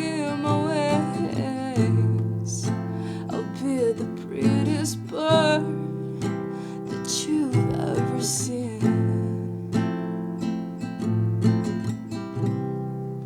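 Acoustic guitar strummed as a song ends, with a voice singing a few drawn-out notes in the first half; the last chord rings and fades away near the end.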